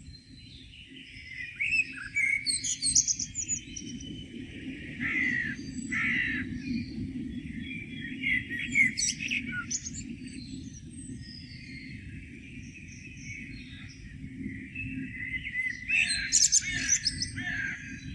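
Several songbirds singing and chirping together in a morning chorus, with denser bursts of song about two seconds in, near the middle and near the end. A steady low rumble runs underneath.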